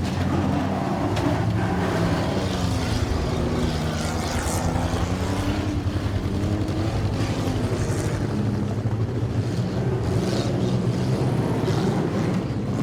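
Engines of several demolition derby cars running and revving together, their pitches rising and falling.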